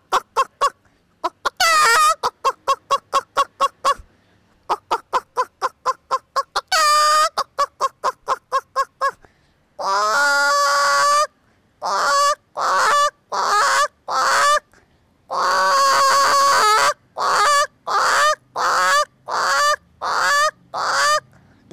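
A woman imitating chickens with her voice: fast runs of short clucks broken by a few drawn-out squawks, then a string of separate calls about one to two a second.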